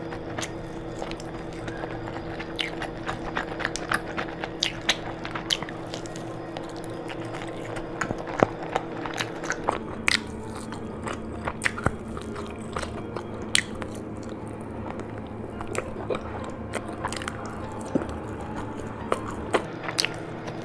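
Close-miked eating: a person biting and chewing food, with irregular sharp wet clicks and crunches, over a faint steady hum.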